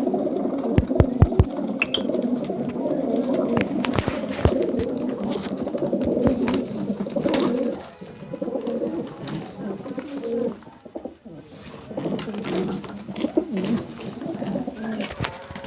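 Racing pigeons cooing, several at once in a continuous overlapping chorus, with a few sharp taps now and then. The cooing thins out after about eight seconds.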